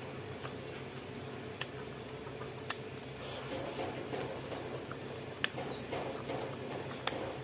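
Close-miked eating sounds: wet chewing and lip-smacking of pork curry and rice eaten by hand, with a few sharp mouth clicks. A low steady hum runs underneath.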